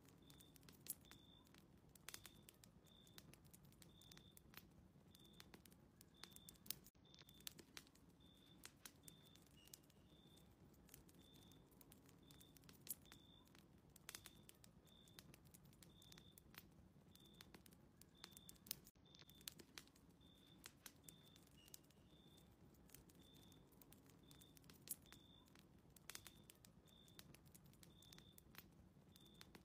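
Faint fireplace fire crackling, with irregular sharp snaps over a low hum, and a quiet high chirp repeating about twice a second throughout.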